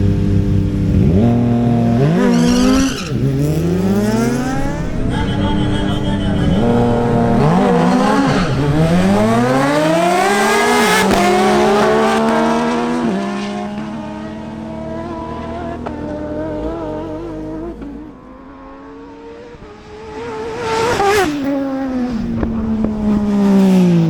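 Kawasaki Z H2 motorcycle's supercharged inline-four accelerating flat out on a drag strip, the revs climbing and dropping through several quick gear changes. It then runs steadier and fainter. About 21 seconds in it is loud again, and it falls in pitch as it goes past.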